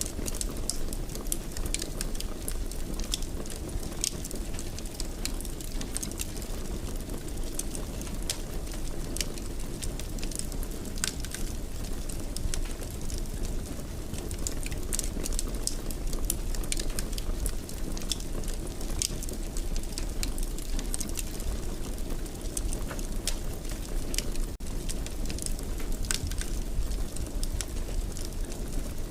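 Wood fire burning steadily in a fireplace: a low rumble of flames with frequent small crackles and pops scattered throughout.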